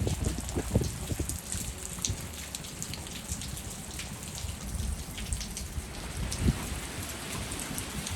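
Heavy rain falling, with many sharp individual drop hits close by over a steady wash of rain and a low, uneven rumble underneath.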